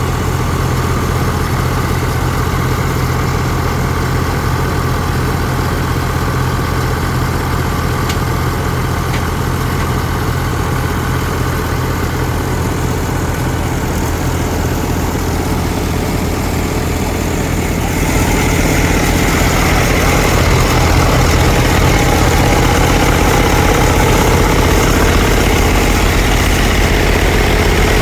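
Diesel tractor engine idling steadily after its fuel system has been bled of air. It grows louder and fuller about two-thirds of the way through.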